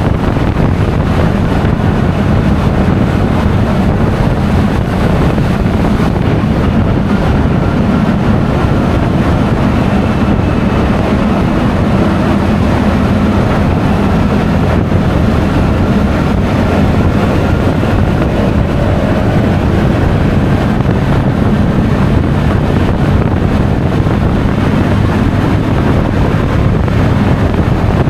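Steady wind rush over an action camera's microphone while riding, with a Honda Forza 350 scooter's engine running underneath.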